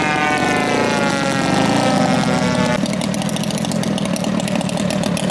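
Engines of giant-scale RC model airplanes running. The pitch falls over the first two seconds as one passes, then the sound changes abruptly to another steady engine drone about three seconds in.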